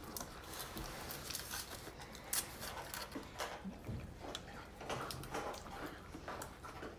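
Close-up chewing and mouth noises of people eating burritos, with soft scattered clicks and rustles and one sharper click a little over two seconds in.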